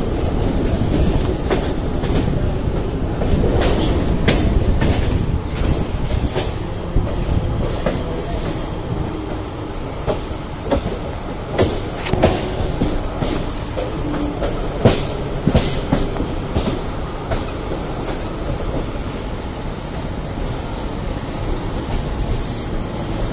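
Suburban electric train running, heard from its open doorway: a steady rumble of wheels on rail with sharp clicks and clatters over rail joints and points, most frequent in the middle. The rumble eases off toward the end as the train slows into the station.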